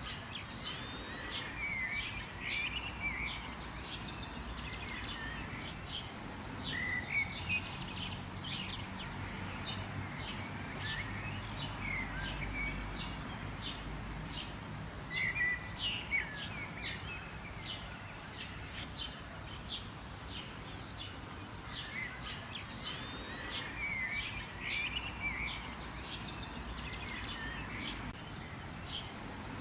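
Wild birds calling: a dense run of short, sharp chirps and quick sweeping notes, several birds overlapping. A faint low rumble sits underneath.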